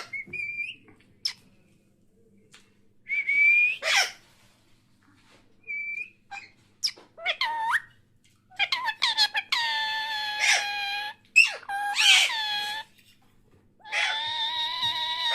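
Pet parrot whistling and calling. Several short whistled notes come with sharp clicks, then two longer held calls about halfway through and near the end.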